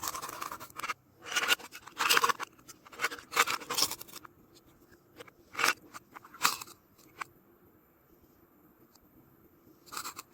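Toy fruit and vegetable pieces being cut with a toy knife: scratchy scraping cuts in several bursts, then a few sharp clicks and taps. After a quiet stretch, another short cutting burst comes near the end.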